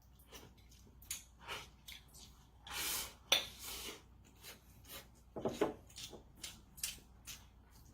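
Eating at the table: irregular light clinks and short scrapes of utensils against a dish, with one longer scrape about three seconds in.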